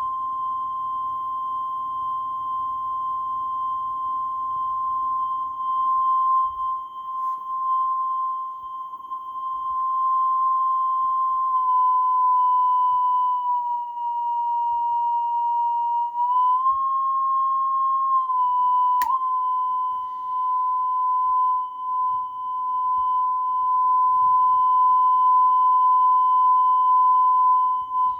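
A steady single-pitch test tone playing back on a Technics RS-1500 reel-to-reel tape deck. Its pitch sags slightly about halfway through, rises briefly, then settles back. A single sharp click comes about two-thirds of the way in.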